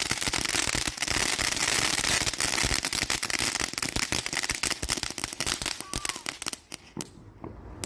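Fireworks crackling in a dense, rapid stream of pops that thins out to a few scattered pops and dies away near the end.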